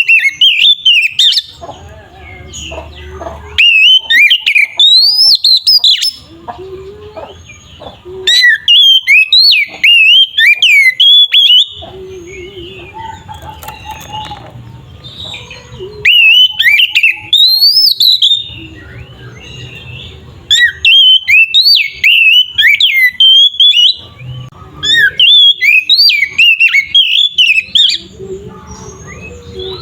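Oriental magpie-robin (kacer) singing in loud bursts of fast, varied whistled phrases, two to four seconds each, with short pauses between them. This is the full, vigorous song of a bird in top singing form, the kind used to provoke other kacer into singing.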